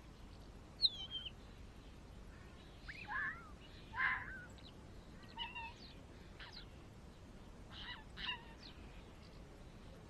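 Small birds giving scattered short chirps and warbling calls, the loudest about four seconds in, over a faint steady outdoor background.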